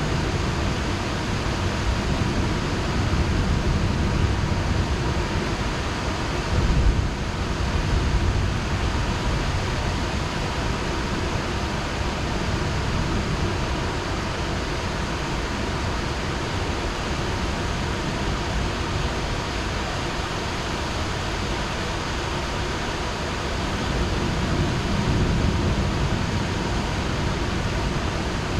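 Heavy rain falling steadily, with low rumbles of thunder swelling a few seconds in, the sharpest about seven seconds in, and another near the end.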